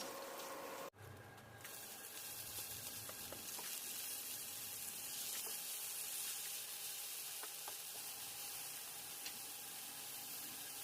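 Paneer frying in hot oil: a steady sizzle with small pops here and there, after a brief dropout about a second in.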